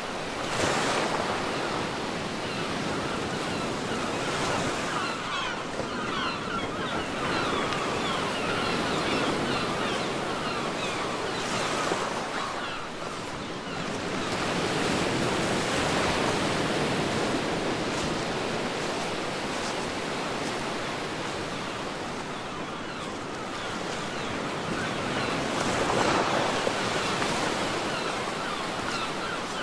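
Ocean waves breaking on a beach and washing up the shore, the surf rising and falling in slow surges, loudest about a second in and again near the end, over a fizzing hiss of foam.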